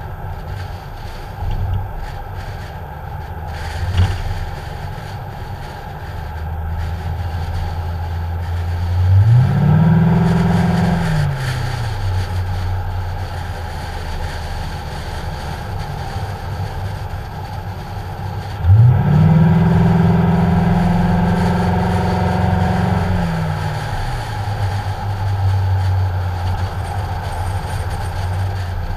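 Ford Mustang's engine pulling the car along the road, heard from a hood-mounted camera in its protective case, with wind noise on the microphone. The engine revs up twice, briefly about a third of the way in and for several seconds about two-thirds in, each time holding its pitch and then dropping back to a steady drone.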